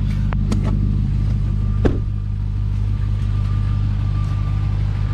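Supercharged 6.2-litre Hemi V8 of a 2021 RAM 1500 TRX running with a steady low rumble. A few sharp clicks sound early on, the loudest about two seconds in, and a faint steady high tone comes in during the second half.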